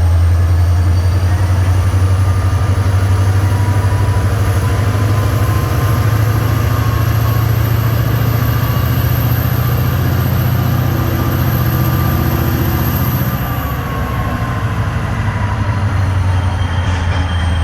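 Diesel locomotive running with a deep, steady drone. A thin high-pitched whine slowly rises, then fades away about 13 seconds in, as the engine sound eases slightly.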